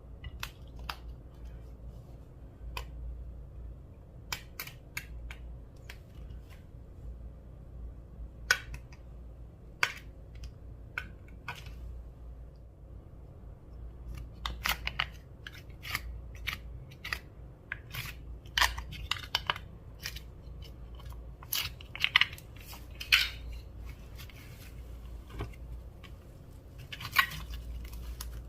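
Clear slime being worked by hand, giving irregular sharp sticky clicks and pops, sparse at first and busier from about halfway through.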